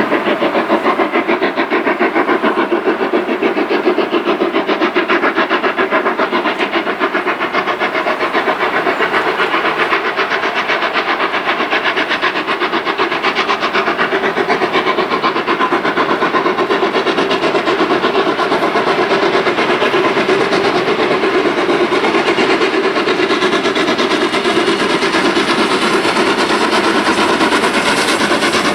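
Steam locomotive and its train running on the line, with a fast, even, repeating beat.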